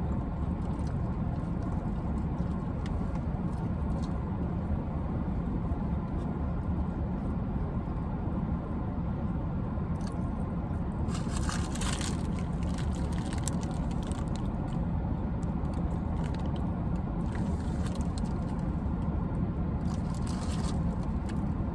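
Steady low rumble with several short bursts of scraping and rustling, the loudest about halfway through and again near the end.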